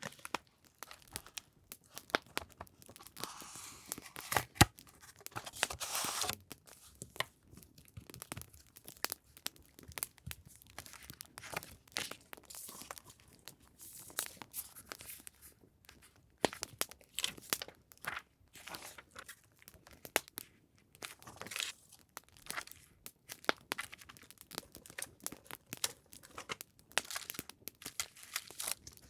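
Paper and packaging being handled: rustling, crinkling and tearing, loudest a few seconds in, over many small crackles from an added campfire sound.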